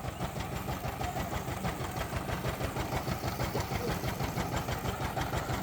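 Power tiller's diesel engine running steadily, an even rapid chugging that holds the same pace throughout.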